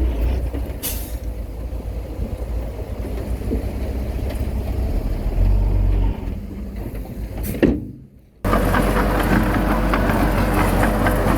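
Heavy diesel earthmoving machinery engine running with a low rumble, with a sharp knock about a second in and another just before eight seconds. The sound then drops out briefly and comes back abruptly as a steadier engine note with a clearer hum.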